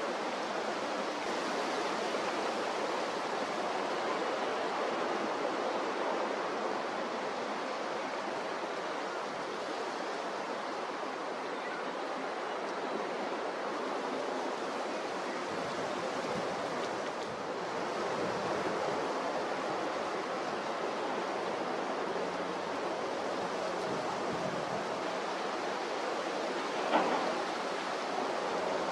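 Steady rushing noise of strong wind and rough sea, with one brief knock near the end.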